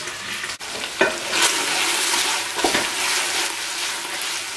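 Chicken, onions and tomato paste sizzling in a steel pot as the food is stirred with a wooden spoon, a steady frying hiss with two louder knocks, about a second in and again near the middle.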